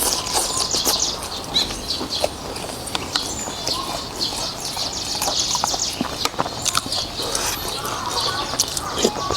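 Close-miked eating sounds: wet chewing and mouth smacking over a bowl of noodles in beef soup, a steady run of quick moist clicks.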